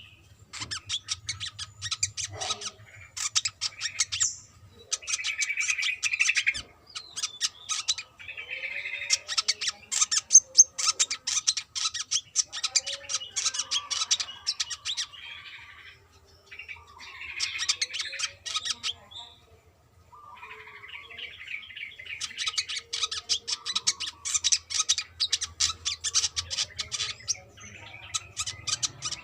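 Brown-throated sunbird (kolibri kelapa) singing: long runs of rapid, sharp, high chattering notes in several bouts with short breaks between them.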